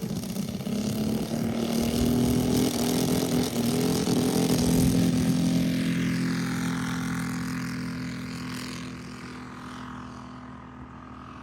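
Saito six-cylinder radial model aircraft engine running steadily on an RC P-47 Thunderbolt, growing louder over the first few seconds and then fading away in the second half. The flyer finds the engine short of power.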